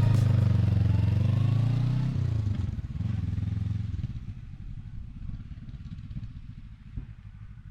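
Honda CB500X parallel-twin engine running, its pitch dipping and then rising over the first two seconds before dropping back to a quieter, steady low hum.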